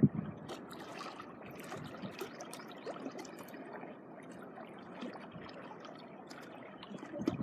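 Seawater at the shoreline trickling and washing, a steady wash with many small faint ticks and splashes.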